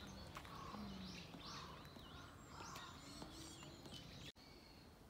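Faint bird calls outdoors: a run of short chirps, about two a second, which stop about three and a half seconds in. A sudden break in the sound follows shortly after.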